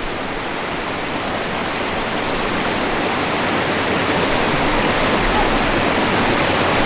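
Rushing stream water, a steady hiss that grows slightly louder.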